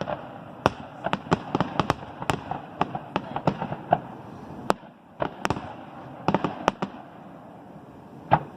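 Fireworks going off: many sharp bangs and crackles at irregular spacing, often several in quick succession, thinning out in the last couple of seconds before one more loud bang near the end.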